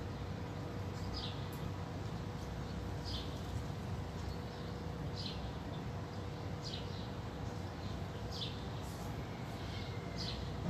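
A bird repeating a short, high, falling chirp about every one and a half to two seconds, over a steady low background hum.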